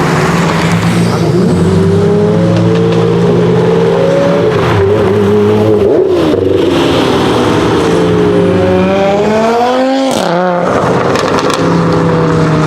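Lamborghini Murcielago LP640's 6.5-litre V12 with an iPE exhaust, revved repeatedly from idle: several rising and falling rev blips, the highest near ten seconds in. It then drops sharply with a few sharp cracks and settles back to a steady idle.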